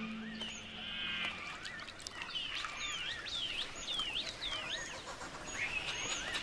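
Wild birds calling: a buzzy high trill, then a run of quick, falling chirps, and another trill near the end.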